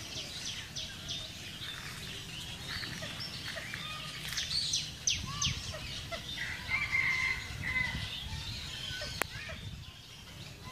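Small birds chirping and calling, many short high chirps and quick falling whistles, busiest in the middle, with one held call about seven seconds in. A single sharp click sounds about nine seconds in.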